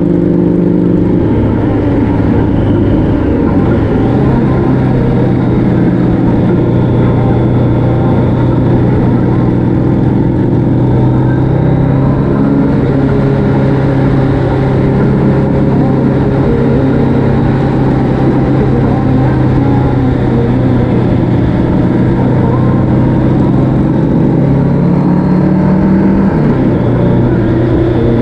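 Motorcycle engine running steadily at cruising speed while riding, over a constant rush of wind and road noise. The engine note drops about a second in, settles again a few seconds later, and climbs then falls back near the end as the throttle or gear changes.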